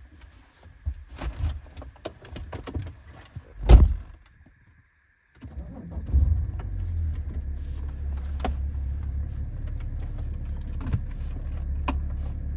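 Light clicks and rattles, then a heavy thump like a car door shutting. After a short break comes the steady low rumble of a car driving, heard from inside.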